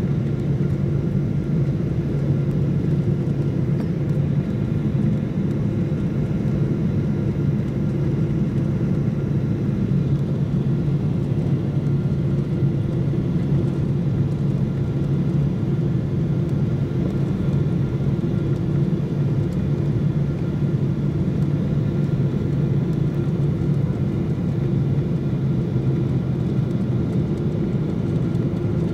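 Steady cabin noise of a jet airliner: an even low rumble of engines and airflow with faint steady whining tones above it.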